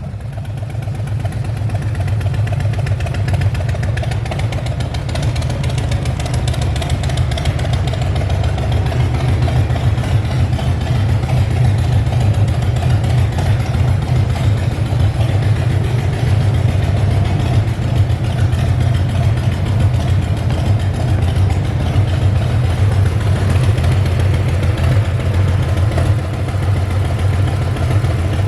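Harley-Davidson CVO Street Glide's 114 cubic inch Milwaukee-Eight V-twin idling steadily through a Vance & Hines aftermarket exhaust, a loud, even low rumble.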